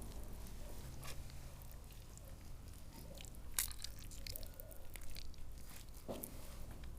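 Raw meat and chicken being pushed onto skewers: faint, irregular squishing and crunching with scattered clicks, the sharpest about three and a half seconds in.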